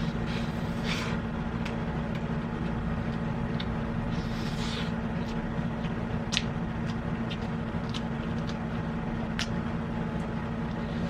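Someone eating: scattered small clicks and brief rustles of cutlery and food handling, with chewing, over a steady low background hum.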